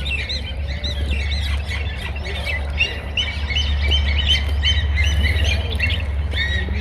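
Many small birds chirping and calling at once, short arched notes overlapping throughout, over a steady low rumble.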